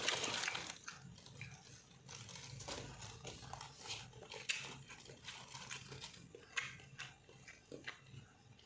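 Close-up chewing and lip-smacking of a person eating with his fingers, a string of short wet clicks and smacks at irregular intervals.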